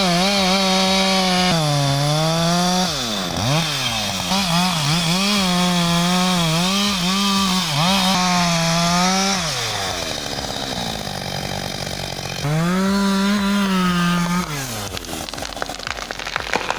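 Husqvarna 562 XP two-stroke chainsaw running at full throttle, its pitch dipping and wavering as it cuts into the tree. It falls back to idle about ten seconds in, is revved hard again for about two seconds, and drops off near the end.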